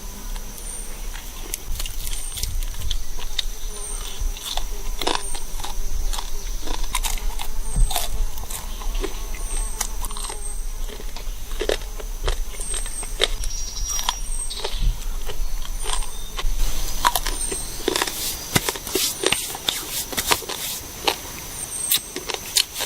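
A steady high insect buzz, with a short high chirp repeating about once a second, under irregular sharp clicks and crackles.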